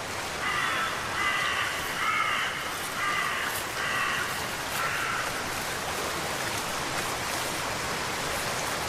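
A crow cawing about six times in quick succession, then falling silent, over a steady watery hiss of rain or running water.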